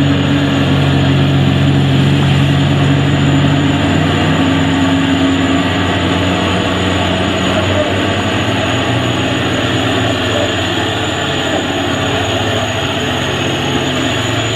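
Heavy truck engine running steadily under load with road noise, its note shifting slightly about four seconds in. A thin steady high whine runs alongside.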